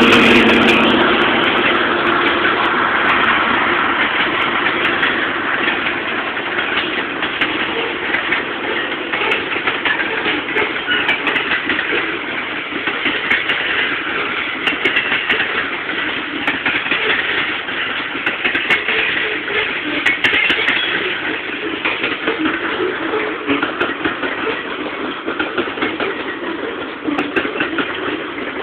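Freight train passing: the diesel locomotives' engine sound fades over the first few seconds while the long string of freight cars rolls by, wheels clicking over rail joints and interlocking switches.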